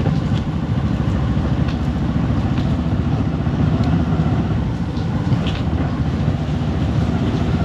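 Motorcycle engine running steadily under way, a continuous low rumble.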